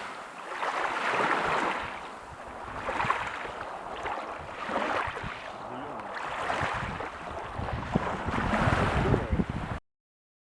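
Ocean waves washing in, in repeated swells about every two seconds, then cutting off suddenly near the end.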